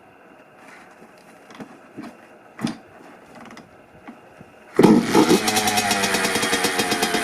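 2007 Honda CR85's 85cc single-cylinder two-stroke engine on a cold start: a few faint knocks and clicks, then about five seconds in the engine fires suddenly and runs on with a steady fast pulsing.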